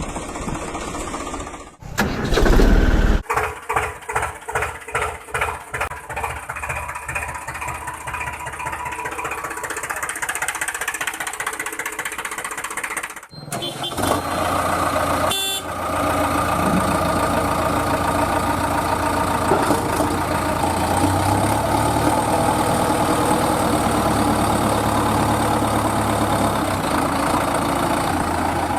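Tractor engines running in a series of short cut-together clips: an engine chugging in even pulses, then after a cut a steady engine hum.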